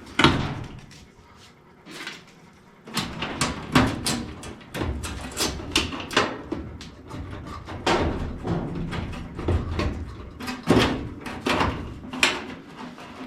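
Irregular knocks, clanks and scrapes as furnace parts and hand tools are handled: a few strikes early, then a busy run of them from about three seconds in.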